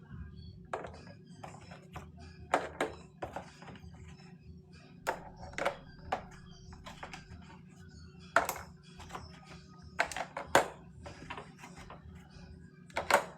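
Scattered clicks, taps and knocks of food containers and items being handled and set down while organizing a fridge, about ten separate strikes, over a steady low hum.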